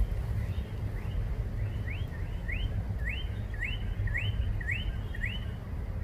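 A bird calling outdoors: a run of short rising chirps, about two a second, that stops about five seconds in, over a steady low rumble.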